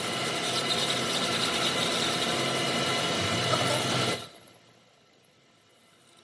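A power tool working metal with a steady scraping, rasping sound that cuts off about four seconds in, leaving only a faint high whine.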